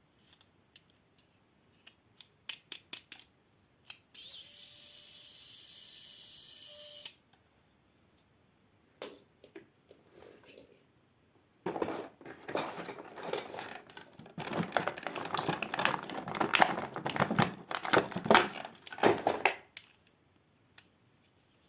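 Plastic toy vehicles being handled: scattered clicks, a steady hiss for about three seconds, then a long run of dense clicking and rattling.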